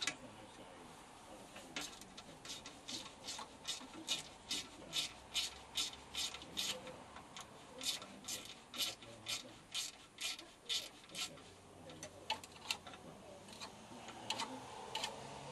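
Hand-tool work on a VW 1600 engine case: a steady run of short, sharp metal strokes, about two to three a second, that stops about eleven seconds in, followed by a few scattered clicks.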